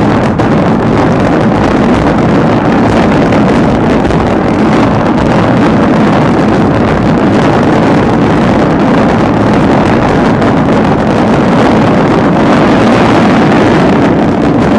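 Dense fireworks barrage with many shells and fans going off at once, their bangs and crackle running together into one steady, loud rumble.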